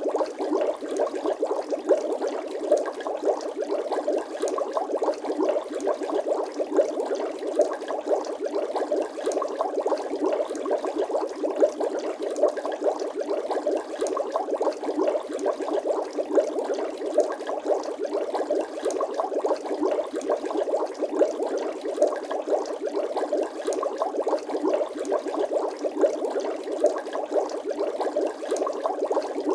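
Bubbling water sound effect: a dense, unbroken stream of small rapid bubble pops and gurgles at a steady level, thin, with no deep bass.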